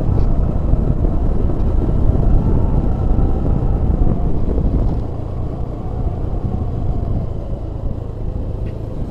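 Vehicle engine and road noise heard from a moving vehicle, a steady low rumble that eases off about five seconds in.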